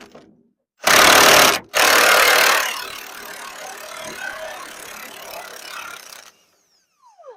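Impact wrench working a spreader-body mounting bolt loose. Two loud bursts come in the first couple of seconds, then a quieter steady run of about three and a half seconds that cuts off suddenly.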